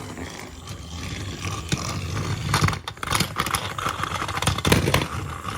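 Battery-powered toy train engines running on plastic track: a steady motor whir with clattering and several sharp clicks and knocks, the loudest about three and five seconds in.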